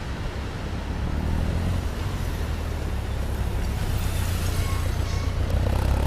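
Heavy wind buffeting on the microphone over a Honda CB1100's air-cooled inline-four motorcycle engine running, with a steady low rumble throughout.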